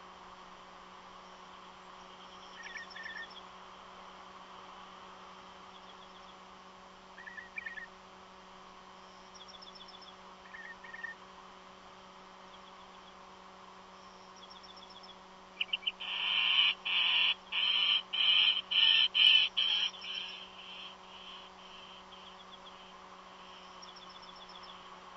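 Strange calls from a bird that is not an eagle: a few short, faint call groups, then a run of about eight loud calls in quick succession about two-thirds of the way through, over a steady electrical hum.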